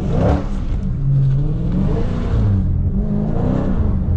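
Dodge Scat Pack's HEMI V8 revving hard under full throttle, its pitch climbing at the start and then swinging up and down several times as the throttle is worked through a slide on a wet corner.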